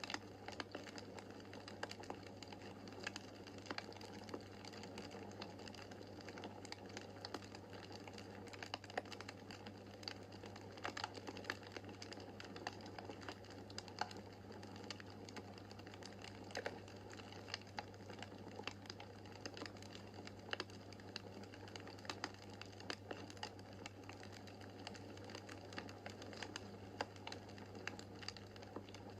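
Wood fire in a fireplace crackling: many small, irregular sharp pops and snaps over a soft, steady low rumble of the flames.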